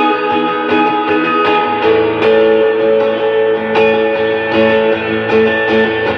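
Live guitar music: strummed chords in a steady rhythm, a little more than two strums a second, playing the instrumental end of a song.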